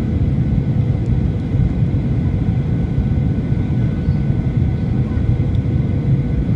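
Boeing 737-800 cabin noise at a window seat: a steady low rumble of the jet engines and airflow, with no sudden events.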